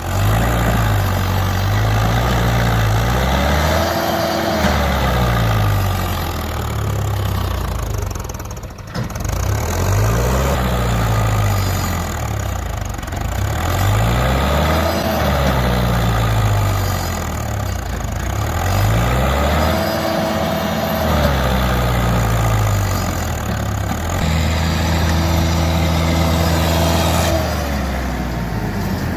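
Standard 450 tractor's diesel engine running and being revved over and over, its pitch climbing and falling about five times, then held high for a few seconds near the end.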